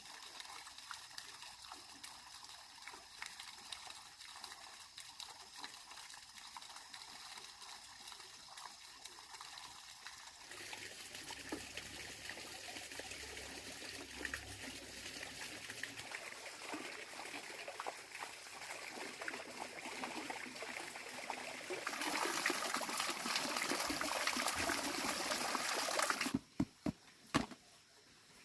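Water trickling and running, louder for a few seconds near the end, then cutting off, followed by a few sharp knocks.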